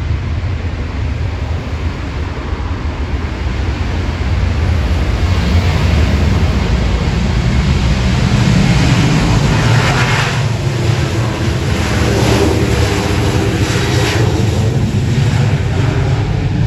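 Jet airliner engines running over a constant low rumble, the noise building from about five seconds in and at its loudest through the middle, with a faint whine near the end.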